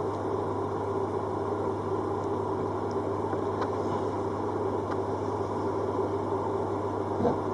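Steady mechanical hum with a hiss, with a few faint light ticks over it.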